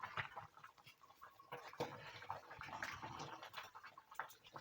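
Chicken curry bubbling and being stirred in a pot: faint, irregular wet pops and soft sloshing.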